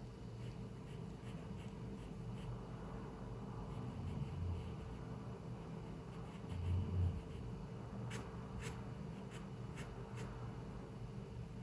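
Pencil scratching on paper over a steady low hum. There are two dull low thumps, the louder one about seven seconds in, and a few light ticks near the end.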